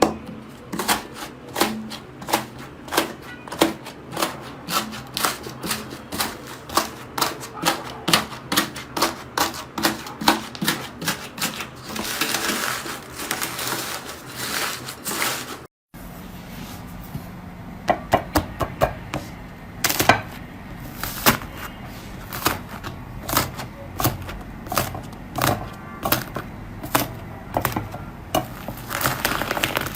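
Slime being squeezed and poked by hand, giving a quick run of crisp clicks and pops, about three a second. There is a short break about halfway through, after which the clicking carries on over a faint steady hum.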